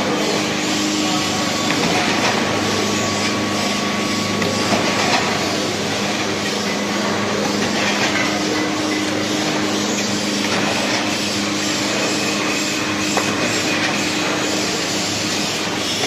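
CNC paper edge board machine running: a steady, dense mechanical noise with a constant low hum.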